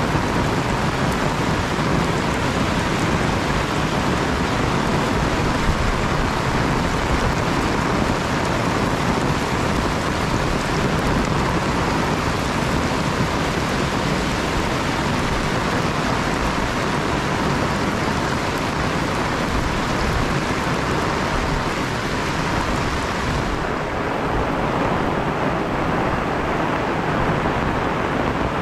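Heavy rain pouring in a steady, dense hiss. A faint steady buzz from the camera's stabilizer sits under it and stops near the end, when the rain's hiss also turns duller.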